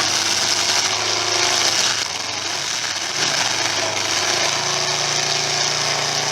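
Demolition derby car engines running, a loud steady engine drone over dense noise, easing slightly about two seconds in.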